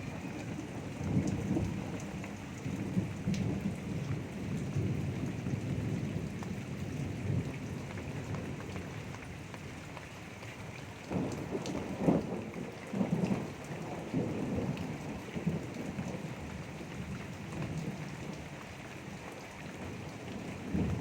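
Heavy thunderstorm: steady rain with thunder rumbling on and off, the loudest peals a little past halfway.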